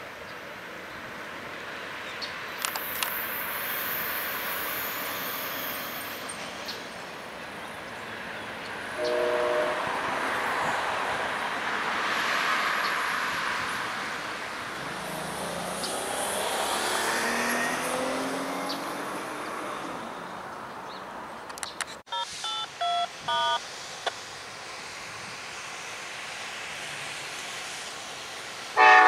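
Tri-Rail commuter train running away round a curve, its rumble rising and falling, mixed with street traffic. About three-quarters of the way in a train horn gives several short toots, and a loud horn blast starts at the very end, typical of an approaching Amtrak train horning for the crossing.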